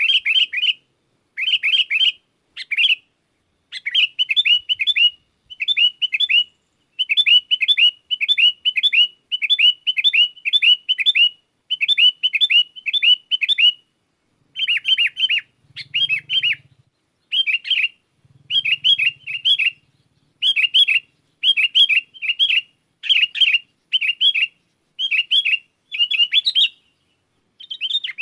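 Sooty-headed bulbul (kutilang) singing vigorously: short bubbly chirping phrases repeated in quick runs, with brief pauses between runs.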